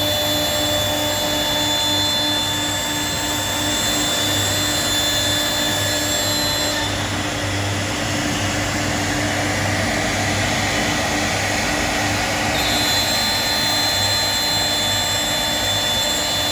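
CNC router running steadily with a high spindle whine while cutting 10 mm PVC sheet. About seven seconds in, the whine gives way to a harsher hiss for several seconds, then returns.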